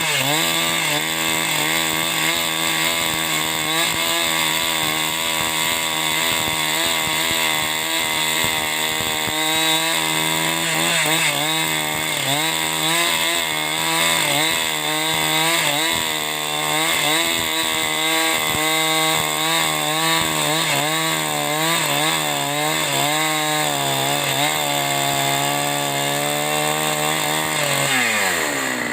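Two-stroke chainsaw revved up to full throttle and held there while cutting wood, its pitch wavering slightly with the load, then dropping back toward idle near the end.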